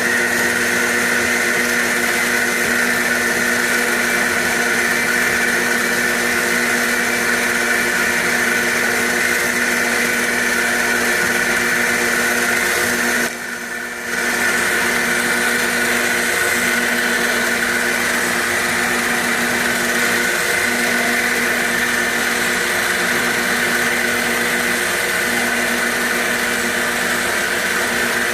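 CNC machine cutting a roughing pass: the spindle and drive motors run steadily with a whine made of several held tones over the cutting noise. The level dips briefly about halfway through, then the cut resumes.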